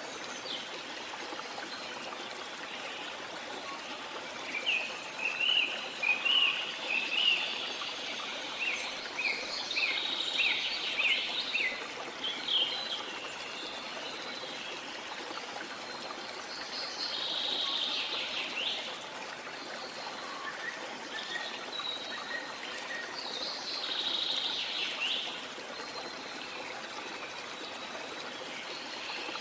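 Steady rush of a waterfall, with birds calling over it: a run of quick chirps between about 4 and 13 seconds in, then a couple of shorter calls near 18 and 24 seconds in.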